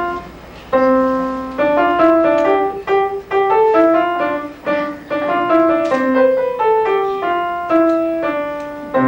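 Piano playing a tune, notes and chords struck one after another, each ringing and fading, with a short break about half a second in.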